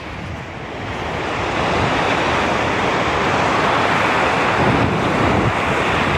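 Stormy sea surf breaking, with strong gusty wind buffeting the microphone. The noise swells over the first two seconds, then holds loud and steady.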